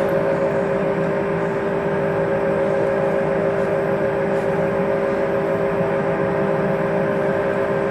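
1941 Cincinnati Bickford Super Service drill press running under power, its 5 hp motor and geared spindle drive giving a steady mechanical whine with the spindle power feed engaged.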